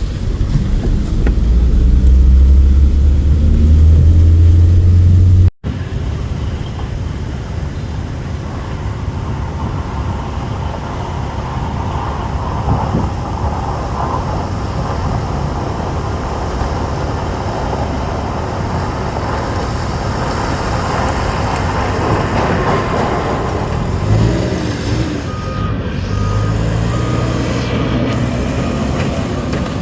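Motor vehicle running: a loud low engine drone for the first five seconds or so, then, after a sudden break, a steady rumble of engine and road noise.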